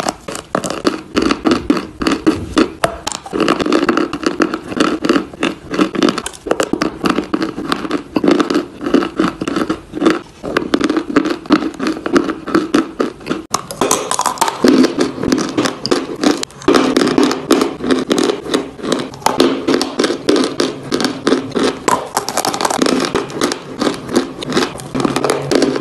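Close-up crunching and chewing of lumps of dry clay or chalk being bitten and ground between the teeth: a dense, irregular crackle of many small crunches.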